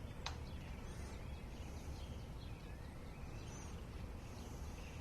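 Quiet background: a steady low hum with a few faint high bird chirps and a single click just after the start.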